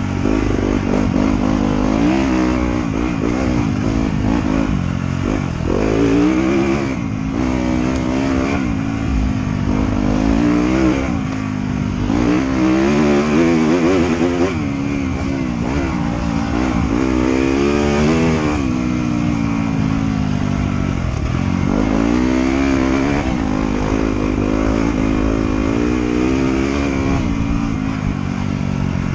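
Trail motorcycle engine being ridden hard, its pitch repeatedly climbing and dropping every few seconds as the throttle is opened and closed and the gears change.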